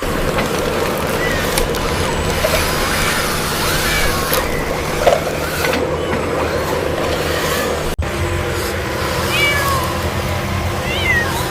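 Kitten meowing several times over a steady low hum, which drops out for an instant about eight seconds in.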